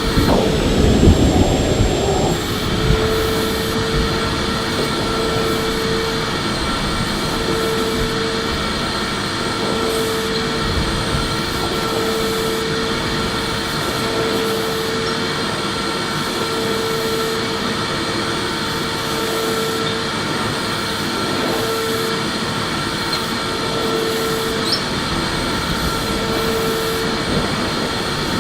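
Electric vacuum cleaner running steadily, a whirring noise with a steady whine and a lower hum that pulses about every two seconds. The first couple of seconds carry a louder low rumble.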